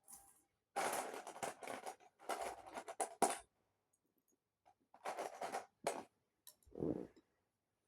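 Lego pieces being handled and rummaged through: short rustling, clattering bursts about a second long, five or so in a row with brief pauses between, the last one with a dull knock in it.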